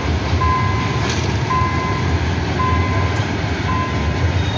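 Goods train running past with a steady, loud rolling rumble. A separate beeping tone sounds four times, about once a second.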